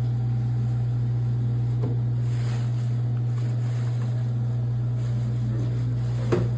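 A steady low hum, with a faint click about two seconds in and a sharp knock near the end.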